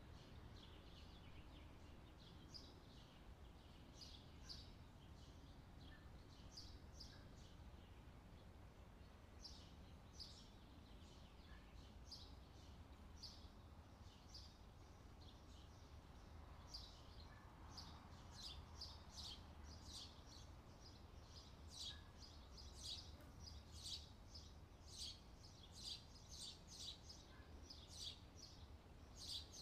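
Faint, quick chirping of small birds, sparse at first and much busier from about halfway, over a low steady hum.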